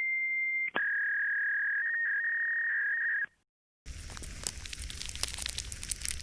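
Stock sound effects played back to back. A steady electronic beep tone switches under a second in to a slightly lower, wavering tone that stops about three seconds in. After a short silence, a crackling, hissing noise full of sharp pops follows, like static.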